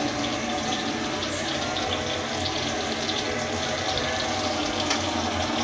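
Oil sizzling and crackling steadily as tofu and tempeh deep-fry in a wok, with a steady low hum underneath.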